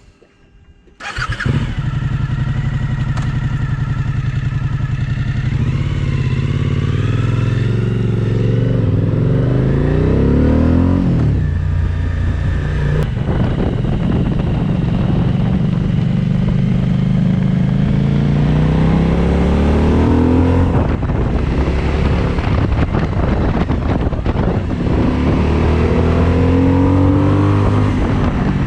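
Suzuki V-Strom 1050XT's V-twin engine comes in suddenly about a second in, then runs hard as the motorcycle accelerates away. The engine note climbs in long rising pulls, three times, and drops back at each upshift.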